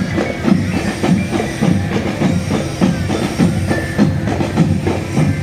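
Marching drum band playing, with drums beating a steady, quick, even rhythm and faint melodic tones above.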